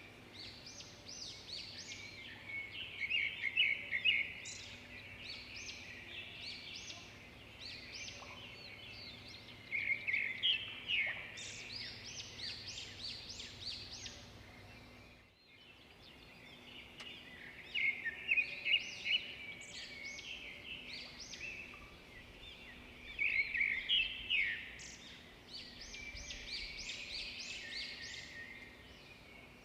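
Several songbirds chirping and singing, quick overlapping trills and chirps that come in bursts, with a brief break about halfway through.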